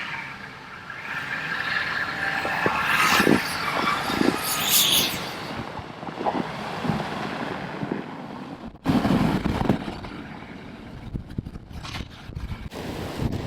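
Vehicles on a snowy city street, with hissing and scraping noises; the sound breaks off abruptly about nine seconds in and a different stretch of street noise follows.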